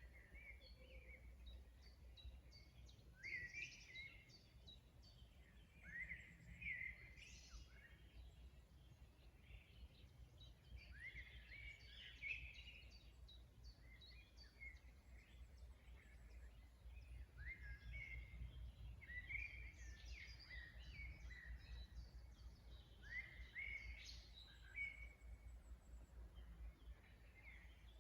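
Songbirds singing faintly in a spring chorus: short song phrases recurring every few seconds, with scattered high chirps, over a low steady rumble.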